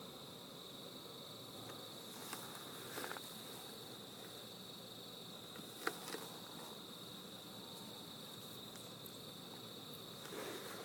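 Steady high-pitched chorus of night insects, chiefly crickets, with a few faint clicks scattered through.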